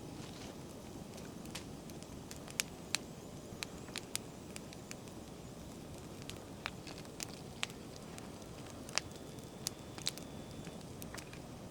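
Campfire of damp oak branches burning with a steady low rush, crackling in sharp, irregular snaps.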